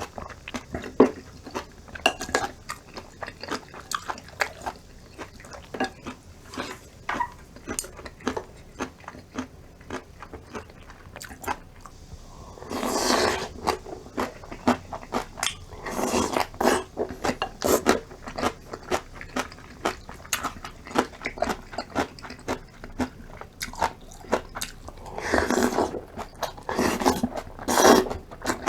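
Close-up eating sounds: steady chewing with many small crisp crunches. Several louder crunching stretches come about halfway through and again near the end.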